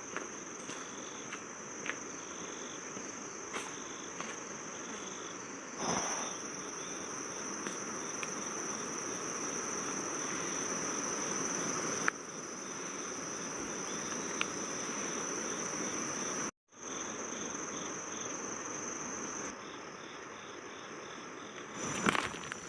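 Insects trilling in a continuous, steady high-pitched drone over a soft background hiss. The sound cuts abruptly several times and drops out completely for a moment about two-thirds of the way through.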